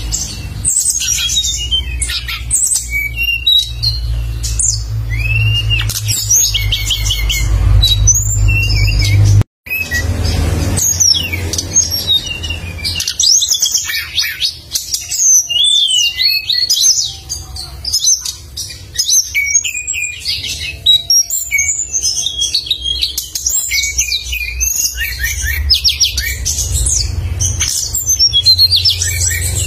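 Caged songbird singing continuously in rapid, sharp high chirps and trills, over a low rumble. The sound cuts out completely for an instant about a third of the way through.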